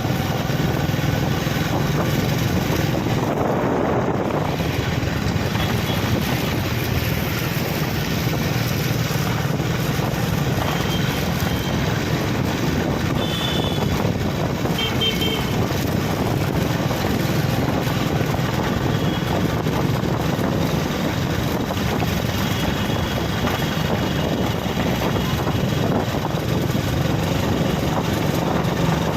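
Steady engine and road noise of a moving vehicle: an even low rumble with a hiss of wind over it. A few faint, short high-pitched tones come through in the middle.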